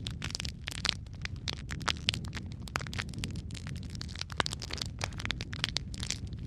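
Wood fire crackling in a fireplace: dense, irregular pops and snaps over a steady low rumble of flames.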